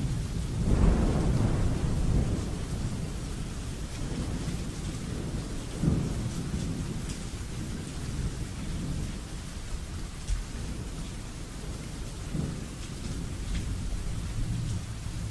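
Thunderstorm: steady rain with rolling thunder. The loudest rumble swells about a second in, with shorter rolls near six and near twelve seconds.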